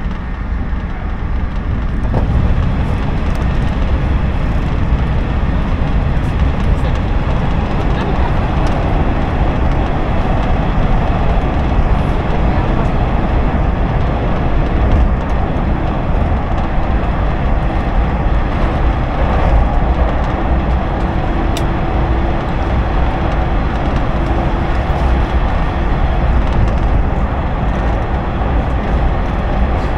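Cabin noise of a JNR 113 series electric train running at speed: a steady rumble of wheels on rails that grows louder about two seconds in.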